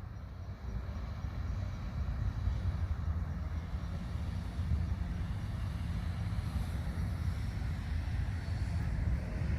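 Steady low rumbling noise without clear tones, getting a little louder over the first couple of seconds.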